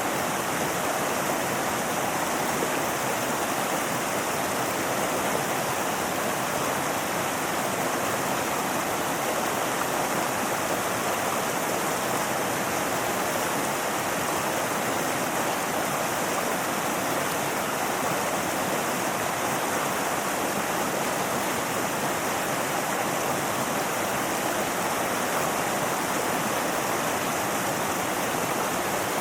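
Mountain river flowing: a steady, even rush of water that does not change.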